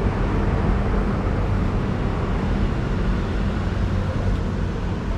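Steady rumble of road traffic, an even noise heaviest in the low end with no single vehicle standing out.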